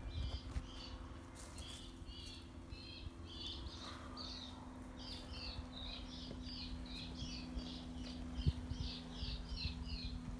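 A songbird singing a long run of short, repeated chirps that come faster in the second half. A single dull thump about eight seconds in.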